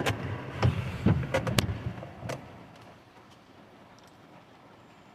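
A quick, irregular run of sharp clicks and knocks over about two seconds, then a faint steady background.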